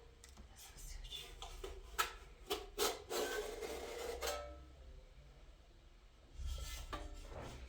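Handling of tools and metal parts: several sharp knocks about two to three seconds in, then a scraping rub, followed by a low rumble near the end.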